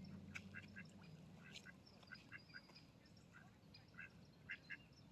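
Ducks giving faint, short quacks, scattered through in quick runs of two or three calls.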